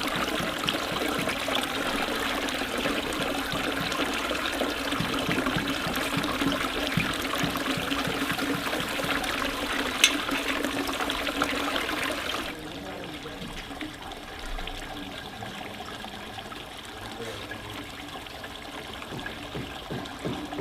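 Water running and trickling steadily. About ten seconds in there is a single sharp click, and a couple of seconds later the sound drops suddenly to a quieter, softer flow.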